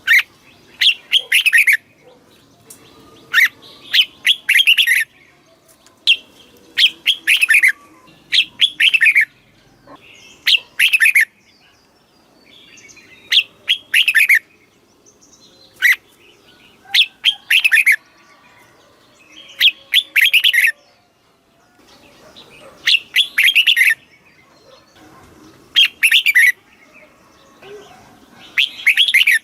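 Red-whiskered bulbul singing: short, bright warbled phrases repeated every two to three seconds, each a quick run of notes falling in pitch.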